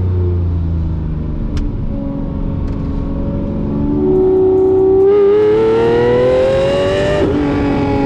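Lamborghini Murcielago SV's 6.5-litre V12 engine pulling hard under acceleration: after a few seconds of lighter running it gets louder and climbs steadily in pitch, then drops suddenly near the end at an upshift.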